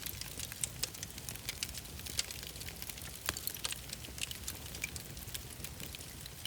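Wood fire crackling: irregular sharp snaps over a low steady rumble, with one stronger snap about three seconds in.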